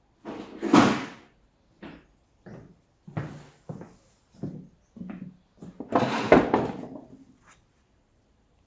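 Irregular knocks, clicks and scrapes of hard objects being handled, with a longer, louder scraping rattle about six seconds in.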